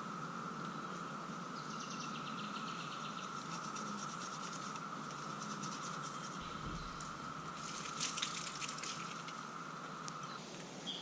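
Faint insect chorus: a steady high drone with buzzy pulsing trills over it, and a few light taps about eight seconds in.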